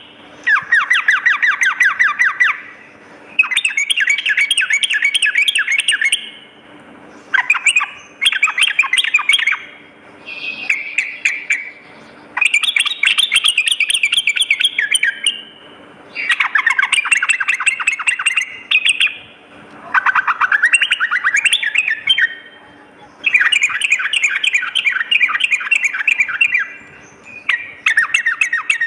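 Yellow-vented bulbul (trucukan) singing loud phrases of fast, chattering notes, each two to three seconds long, with short pauses between them.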